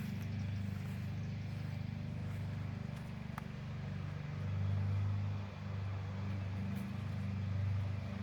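A steady low engine hum that swells and eases in level, with one faint click about three and a half seconds in.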